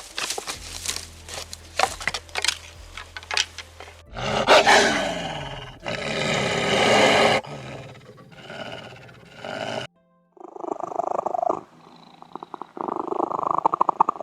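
A string of animal calls: short sharp calls for the first few seconds, then a long loud roar falling in pitch about four seconds in, and after a brief break near ten seconds, a run of rapid pulsing calls.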